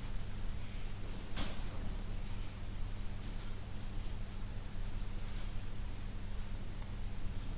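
Pencil sketching on paper: short, scratchy strokes at irregular intervals, over a faint steady low hum.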